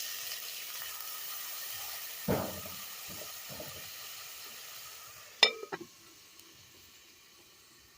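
Sizzling hiss from a hot cooking pot just after water has been added, fading away over several seconds. A dull knock comes about two seconds in, and a sharp metal clink with brief ringing about five and a half seconds in.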